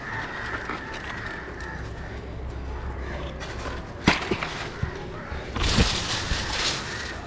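Wind rushing and rumbling on the microphone, with a rustling gust about six seconds in and a single sharp knock about four seconds in.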